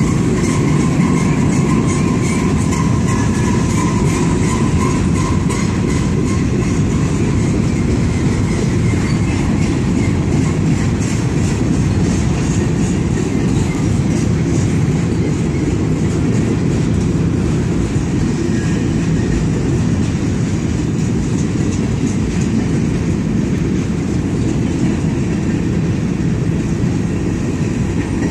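Freight train passing close by, its centerbeam flatcars and then covered hopper cars giving a steady, loud rumble of steel wheels on the rails. A faint high whine sits over it for the first few seconds.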